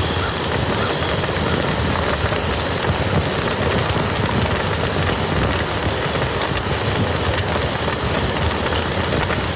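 Wood campfire crackling with many small pops over the steady rush of flowing river water.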